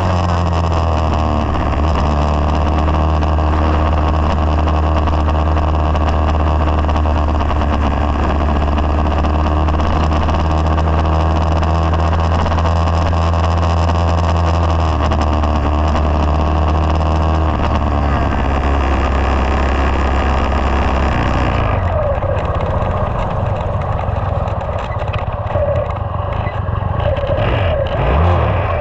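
2020 SSR 189 dirt bike's single-cylinder four-stroke engine running at steady revs while riding. About two-thirds of the way through, the engine note drops away to a lower, rougher rumble, as when the throttle is rolled off.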